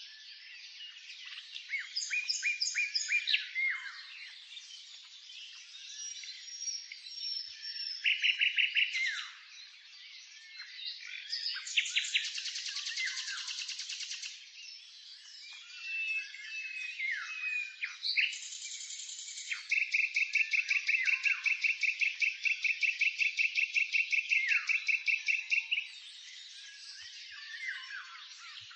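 Several songbirds singing and chirping in overlapping phrases of whistles, quick chirps and trills. A long, even trill of rapidly repeated notes runs from about two-thirds of the way in until shortly before the end.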